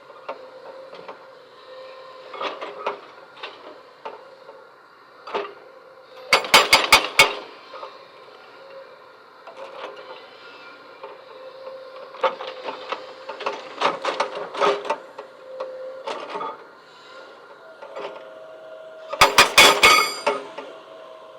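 Small electric motor of a remote-control excavator whining steadily, with scattered clicks and knocks and two loud bursts of rapid clattering, one about a third of the way in and one near the end.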